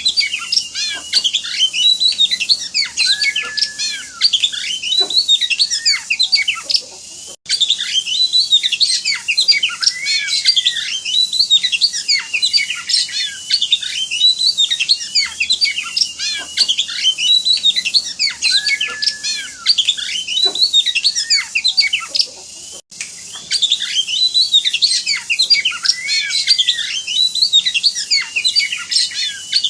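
Oriental magpie-robin (kacer) singing in high excitement: a loud, unbroken stream of varied high whistles and chirps. The same sequence of phrases repeats about every 15 seconds, as a looped training recording, with a short gap about seven and a half seconds in and again near 23 seconds.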